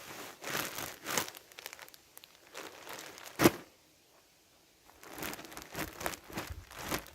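Plastic crinkling and rustling as it is handled, with one sharp knock about three and a half seconds in, a short pause, then more rustling.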